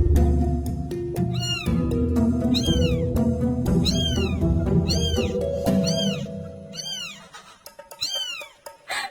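Kittens mewing repeatedly: about seven short, high-pitched meows, each rising then falling in pitch, over background music that fades out near the end.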